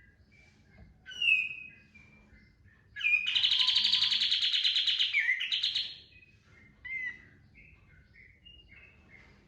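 Kapas tembak songbird singing. Soft chirps and one short call lead into a loud, fast rattling trill of about three seconds that ends on a rising note: the bird's full 'tembakan' burst. A few more short calls follow.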